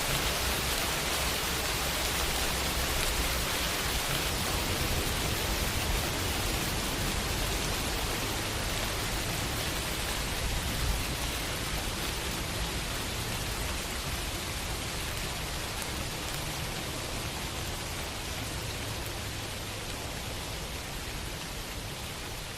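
Steady summer rain falling and pattering on a window, a dense even hiss that eases off slightly over the span.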